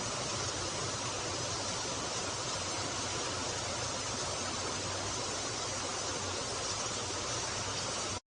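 Heavy rain falling, a steady even hiss of downpour that cuts off abruptly near the end.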